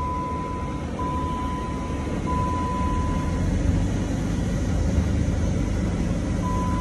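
Inside the cabin of a 2010 Dodge Avenger moving slowly: a steady low engine and road rumble. Over it, a high electronic chime tone repeats about once every 1.2 s, stops a little after halfway and comes back near the end.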